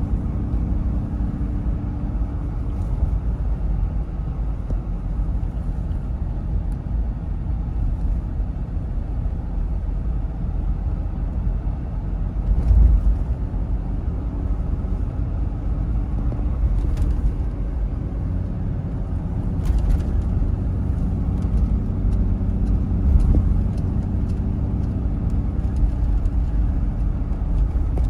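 Toyota Land Cruiser 70 being driven: a steady low engine and road rumble, with a few faint ticks and a louder low bump about halfway through.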